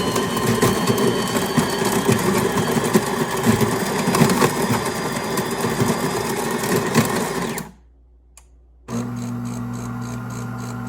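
DeLonghi Magnifica Evo's built-in burr grinder grinding coffee beans for about eight seconds, then stopping. About a second later a steady electric hum starts as the machine moves on to brewing.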